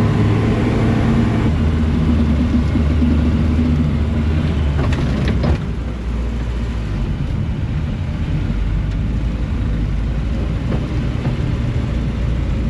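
Bombardier Bombi snowcat engine running steadily under load while crawling through deep snow, with a few knocks about five seconds in, after which the engine note drops a little.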